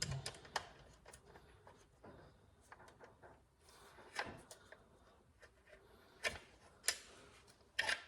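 Irregular light clicks and taps of an Allen key working the bolt of a motorcycle rear axle slider as it is tightened, with a few louder clicks near the end.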